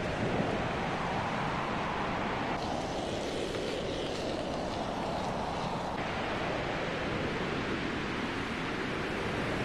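Strong wind blowing steadily, an even rushing noise without a break.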